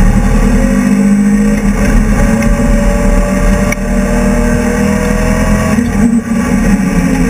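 BMW E30 race car's engine heard from inside its stripped cabin, revs climbing slowly as it pulls through a gear. About six seconds in the note breaks off and drops briefly as the driver shifts up.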